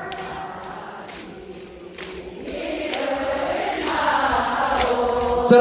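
Audience singing along together without accompaniment, many voices in unison; faint at first, then swelling louder from about two seconds in.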